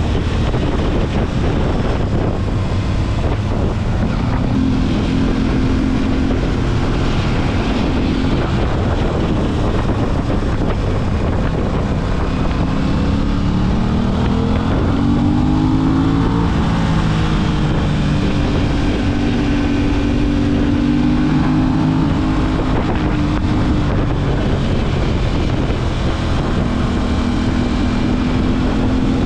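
Aprilia RS 660's parallel-twin engine heard from onboard while riding, its pitch rising and falling with throttle and gear changes, climbing sharply about halfway through. Heavy wind rush on the microphone runs under it.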